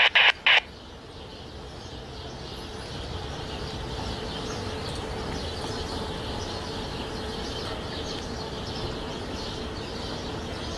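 Loaded stone train's hopper cars rolling past on the rails: a steady rolling noise that builds over the first couple of seconds and then holds, with a faint steady tone in it. Birds chirp above it.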